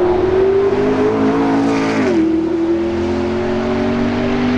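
A performance car engine accelerating hard, its pitch climbing steadily, dropping sharply at a gear change about two seconds in, then climbing again.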